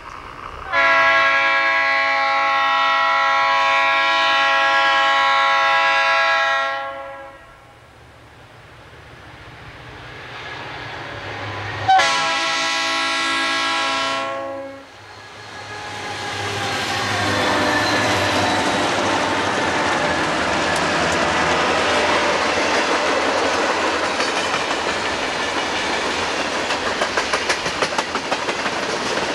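Conrail diesel freight locomotives sound a multi-note air horn: one long blast of about six seconds, then after a pause a shorter blast of about two seconds. The locomotives then pass close by, and the freight cars roll past with a steady rumble and the clickety-clack of wheels over the rail joints.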